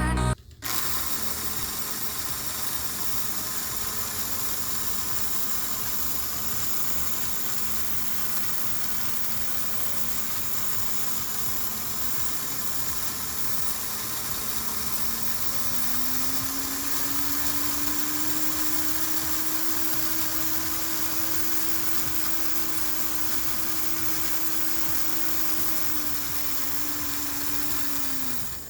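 American Flyer 400-series Alco diesel locomotive's electric motors running on the track: a steady whir with a hum that rises in pitch about halfway through as the locomotive speeds up, holds, then drops in two steps near the end as it slows.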